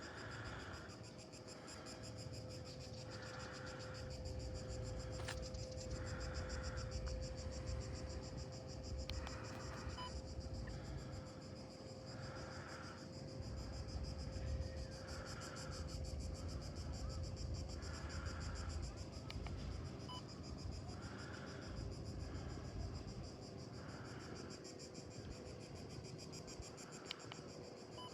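Seaside ambience on a walk: a steady high chirring of insects over a low rumble of wind and sea, with a crunching footstep every couple of seconds.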